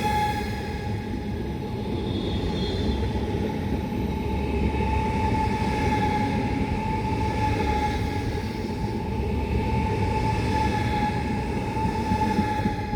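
Train passing: a steady low rumble of wheels and running gear, with a continuous high whine held throughout.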